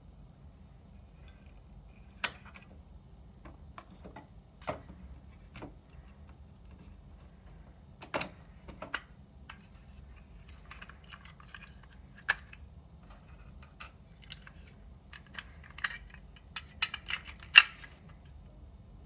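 Irregular small clicks, clinks and light rattles of parts and tools being handled, the loudest sharp click near the end, over a faint low hum.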